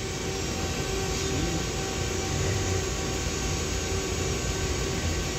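Doosan Lynx 220 LSYC CNC turning center running: a steady mechanical hum with several fixed tones over a noise bed.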